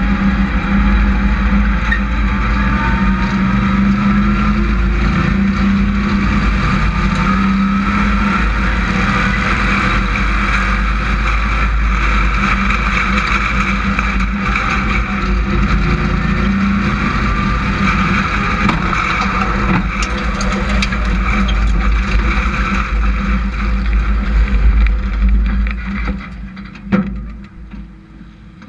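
Hobby-class race trucks' engines running hard around the oval, their pitch rising and falling as the trucks accelerate and pass. The sound drops away sharply near the end.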